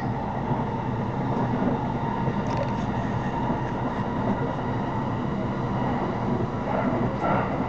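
Steady running noise of a JR Shonan-Shinjuku Line electric commuter train in motion, heard from inside the passenger carriage.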